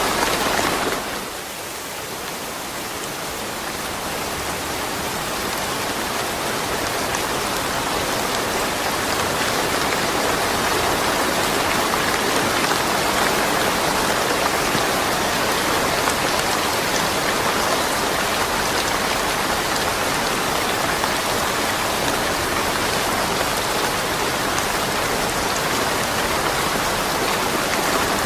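Steady rain with no thunder. It dips in level about a second in and swells back gradually over the next several seconds.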